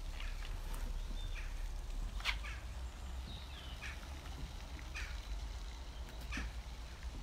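Short bird chirps and calls, scattered every second or so, one of them a brief downward slur, over a steady low background rumble.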